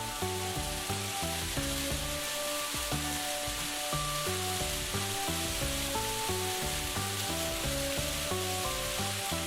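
Steady sizzling of food frying, under background music with a melody of short notes that change pitch about three times a second.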